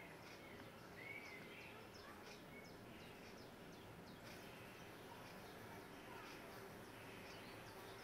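Faint, high-pitched bird chirps: many short, thin notes scattered throughout over a low background hiss.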